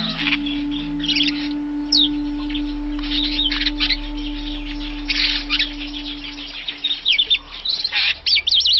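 African starling singing: a busy run of harsh chirps and quick whistled notes that sweep up and down, crowding together near the end. A steady low hum sits underneath for most of it.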